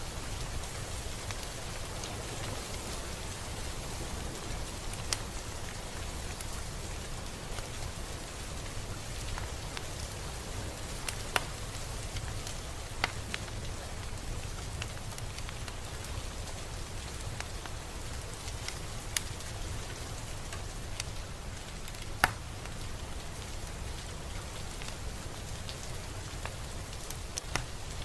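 Steady rain falling, an even hiss with a low rumble underneath. Now and then a single drop lands close with a sharp tick, the loudest about three-quarters of the way through.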